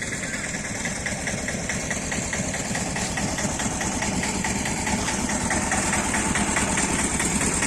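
An engine running steadily at idle, with a regular ticking.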